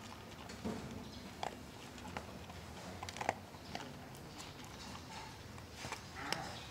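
A dog eating: irregular crunching and clicking chews, a few sharper ones scattered through.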